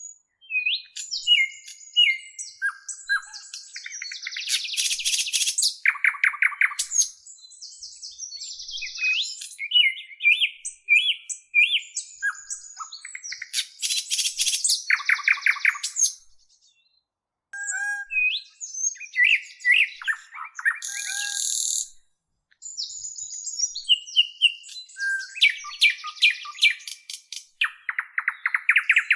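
A songbird singing a varied song of chirps, whistled glides and fast trills, in phrases that break off briefly twice, about halfway through and again a few seconds later.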